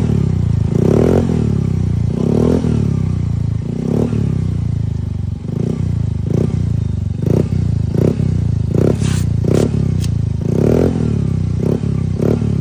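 Yamaha Mio Gravis scooter's single-cylinder four-stroke engine running loud and rumbly through a TRC aftermarket exhaust pipe with its silencer insert removed. The throttle is blipped in about a dozen short revs, which come faster toward the end.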